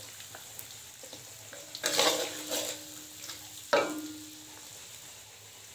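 Food sizzling in hot oil in a metal wok while a metal spatula stirs and scrapes it. About two seconds in, the frying flares up loudly. Near four seconds the spatula strikes the wok sharply, and the wok rings briefly.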